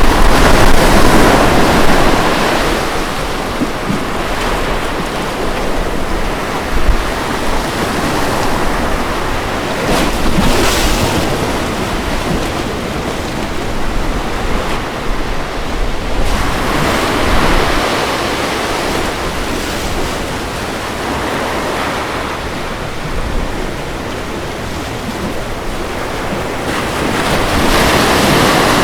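Ocean waves breaking and washing up on a beach, a steady surf hiss that swells with each wave, about once every five to ten seconds, with wind rumbling on the microphone.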